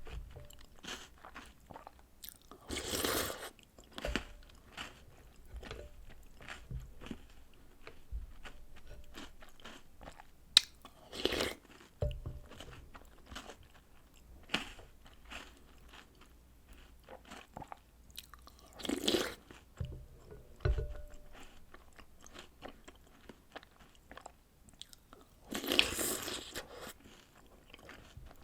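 Close-up eating sounds of chocolate snacks and cookies soaked in milk: many small crisp crunches while chewing. A louder, longer burst comes about every seven or eight seconds, four times in all.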